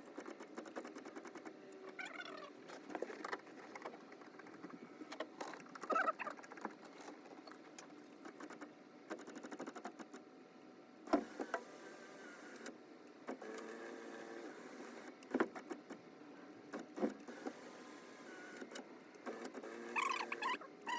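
A small electric motor runs in short spells, some of them winding up or down in pitch. Clicks and knocks of handling fall in between.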